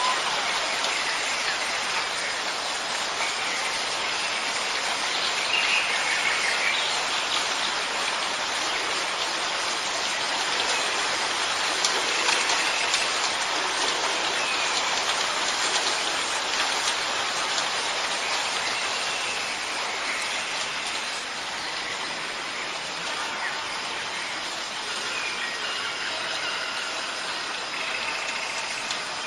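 Steady rain falling, with faint bird calls now and then.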